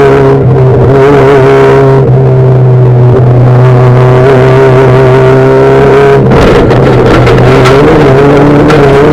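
Rallycross Fiat Bravo's 1600 cc engine running loud at high revs with a steady pitch. About six seconds in the sound turns rough and the pitch wavers for a couple of seconds before settling again.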